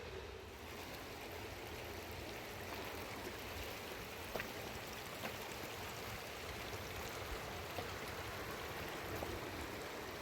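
Steady rush of running water, with a few faint scattered taps.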